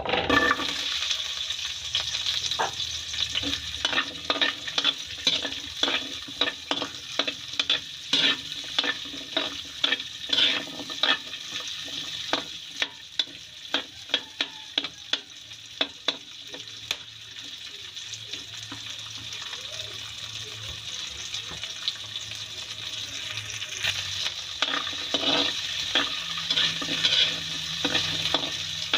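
Diced carrots sizzling as they fry in a hot wok, with a spatula scraping and knocking against the pan as they are stirred. The knocks come thick and fast for the first half, thin out for a while, then pick up again near the end.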